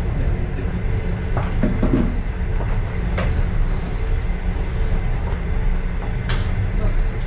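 Steady low rumble of a passenger railway car running along the track, heard inside the car, with a faint steady hum and a few sharp clicks, three of them standing out.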